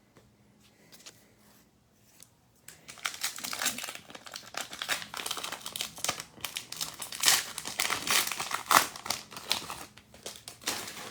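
A trading card pack's wrapper being torn open and crinkled by hand. It starts about three seconds in and goes on as a dense, irregular crackle.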